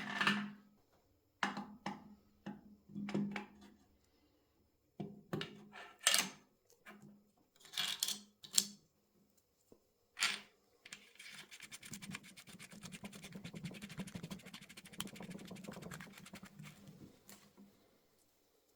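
Workshop handling sounds: a string of separate clicks, knocks and scrapes of tools and metal parts, then about six seconds of fast, even ticking that fades out near the end.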